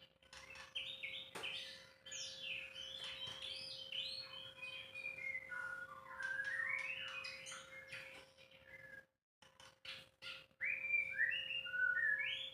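White-rumped shama (murai batu) singing: varied whistled notes and glides, a pause of a second or so about nine seconds in, then a second phrase. A steady faint hum runs beneath.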